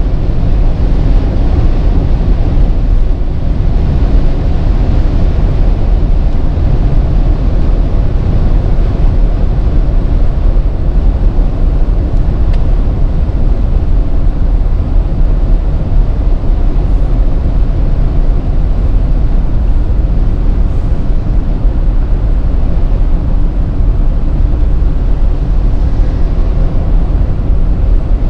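Steady, loud driving noise of a 2019 Audi Q8 50 TDI at speed: deep road, tyre and wind rumble with no rise or fall in engine pitch.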